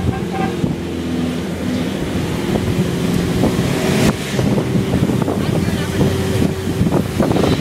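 Truck on the move: its engine hums steadily under road and wind noise, with frequent short rattles and knocks all through.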